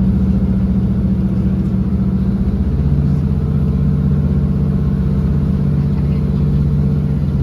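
Class 156 diesel multiple unit's underfloor diesel engine running hard under power. Its steady drone steps down to a lower pitch about three seconds in.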